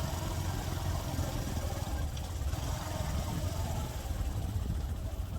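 Motorcycle engine running steadily, with a deep, even low rumble.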